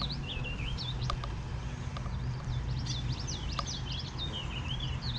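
Red-winged blackbirds calling over and over in quick rising and falling notes, scolding an intruder in their territory. A steady low hum lies underneath, with a few faint clicks.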